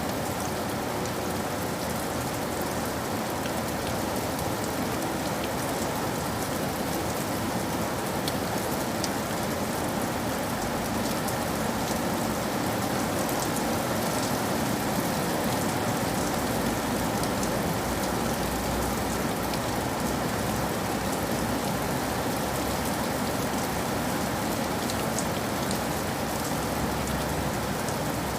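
Steady rain falling, a continuous hiss with fine scattered drop ticks.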